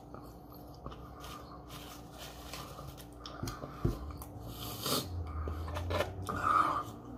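A person chewing French fries close to the microphone, with a few short mouth clicks.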